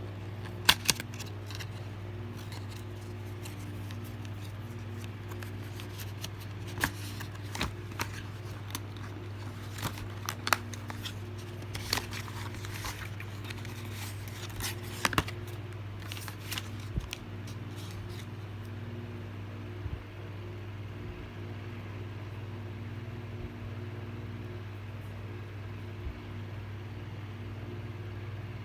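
Product packaging being handled: scattered clicks, taps and light scrapes over the first two-thirds, then they stop, over a steady low hum.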